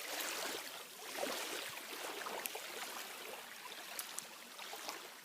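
Water gently trickling and lapping, with many small scattered drips and ticks.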